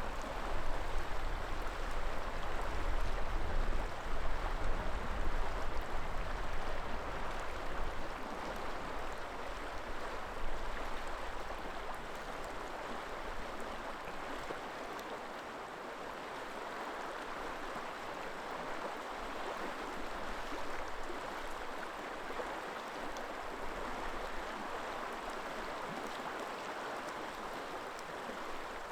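Running water of a river flowing steadily, an even rushing. For the first third a low rumble of wind buffeting the microphone sits under it, then dies away.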